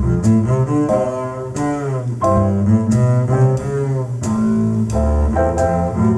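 Instrumental music played through a McIntosh amplifier and Bowers & Wilkins 803 D4 floorstanding speakers. It has a strong, deep bass line under a string-like melody, with sharp note attacks and notes that slide in pitch.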